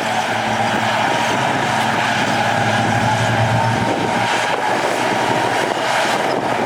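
Heavy diesel earthmoving machinery running steadily under work, a constant engine drone, with a few faint metallic clanks from about four seconds in.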